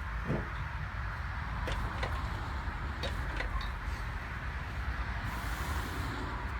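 Scattered knocks and rattles of a wheeled engine cart on steerable casters being pushed and wrestled into place, over a steady low rumble. A short hiss comes about five seconds in.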